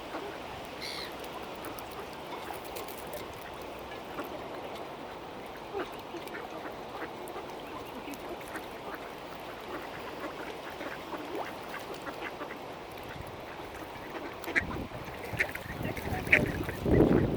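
Mallard ducks quacking over a steady outdoor background, the quacks short and scattered at first, then louder and more frequent in the last few seconds.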